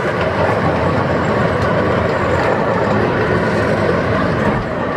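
Chance Morgan miniature park train's open-sided passenger cars rolling along the track: a steady running noise of wheels on rails and the cars' rattle, with a few faint ticks.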